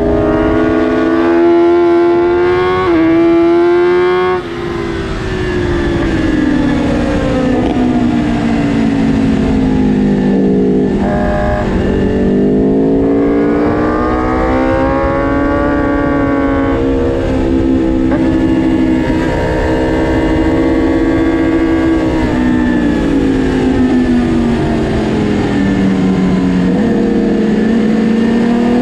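2022 BMW S1000RR's inline-four engine at track speed, heard on board, its revs rising and falling with throttle and gear changes. The pitch jumps about three seconds in and the sound drops away a second later as the throttle closes, then climbs again, falls slowly through a long stretch and rises near the end.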